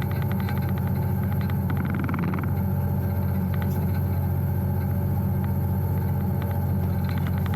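EMD diesel locomotive engine running steadily, heard from inside the cab as a constant low drone, with a fast, even ticking rattle over it.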